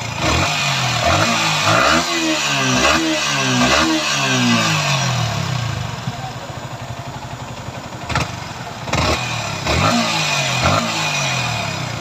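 Yamaha R15 V3's single-cylinder engine revved in quick throttle blips, the revs falling back after each one, settling to idle about six seconds in, then blipped again. The engine's earlier abnormal noise has been repaired, and it now sounds clean and smooth, judged 100% okay.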